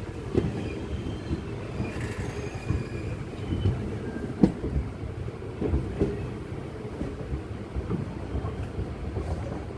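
Passenger train coaches rolling slowly into a station, heard from aboard: low rumble of the running gear with irregular clattering knocks from the wheels, and a faint high wheel squeal about two seconds in.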